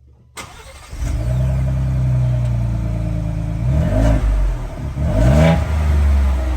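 Ford Bronco engine through its stock exhaust, idling steadily and then revved briefly twice, the pitch rising and falling each time.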